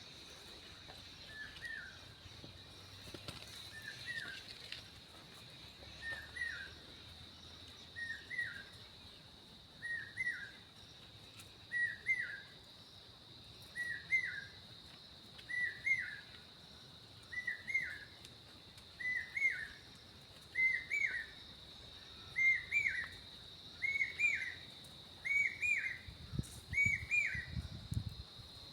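A bird calling over and over, one short chirp about every two seconds, getting louder towards the end, with fainter high chirps from other birds. Under it runs a steady high insect buzz.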